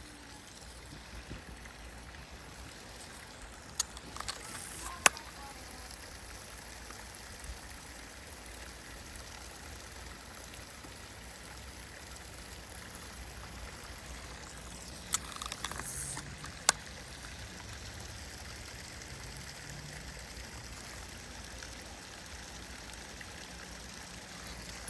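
Creek water running steadily, with a few short sharp clicks scattered through.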